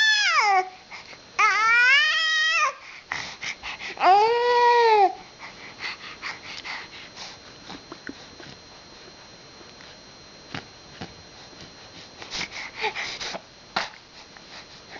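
Three drawn-out, high-pitched squeals: the first falls in pitch, the next two rise and fall. After them come soft scattered clicks and rustles, with a few short squeaks near the end.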